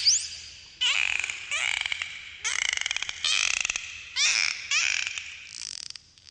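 Dolphins calling: a quick series of about eight short calls, several with rapid pulsing and a fast rising whistle near the start.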